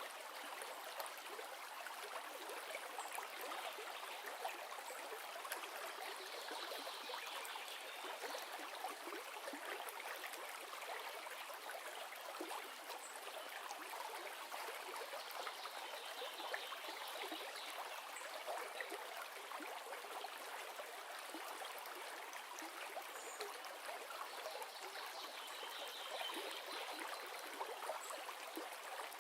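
A river flowing steadily, its water rushing and trickling at an even level.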